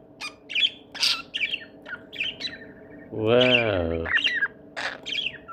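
Pet parrot making a rapid series of short, high chirps and squawks with a few sharp clicks, several calls a second.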